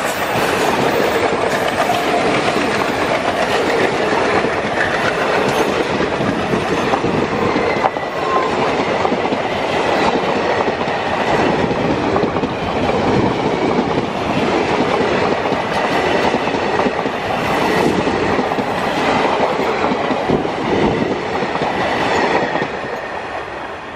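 Passenger coaches of an express train rushing past close by at speed, with steady wheel-on-rail noise. The noise eases off near the end as the last coach goes by.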